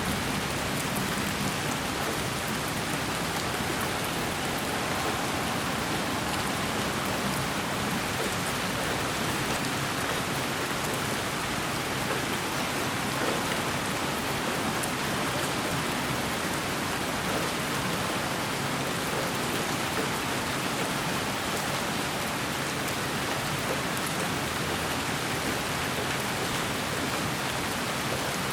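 Steady, unchanging white noise that sounds like rain: an even hiss with faint scattered ticks like raindrops.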